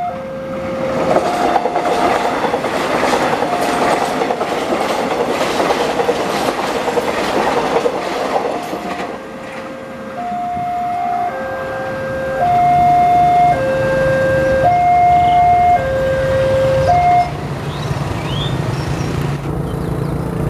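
KRL electric commuter train passing close by, its wheels on the rails making a dense rushing noise for the first eight seconds or so. A level-crossing warning alarm sounds throughout as two tones alternating high and low, about once a second, standing out more clearly once the train has gone. From about twelve seconds in, a low hum rises as another train approaches.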